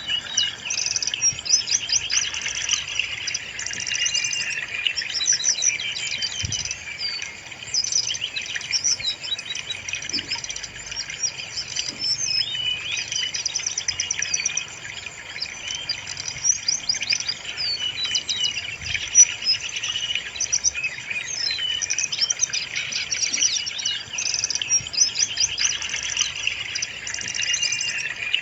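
Brown-chested jungle flycatcher singing continuously: a fast, busy stream of high chirps and trills with hardly a pause.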